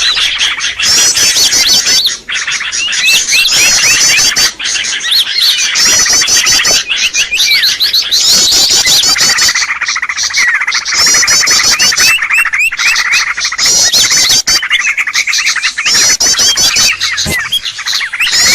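Bird-lure recording of dense, loud songbird chirping. Several birds call over one another, and a fast high trilled phrase recurs about every two seconds over a mass of shorter chirps.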